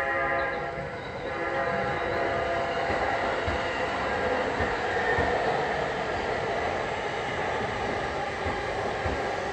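Seibu 40000 series electric commuter train pulling out of the station past the platform: a steady rolling rumble with wheel clicks every so often as the cars go by.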